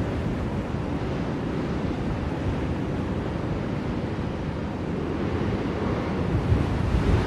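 Blizzard wind blowing steadily with low rushing gusts that swell and ease.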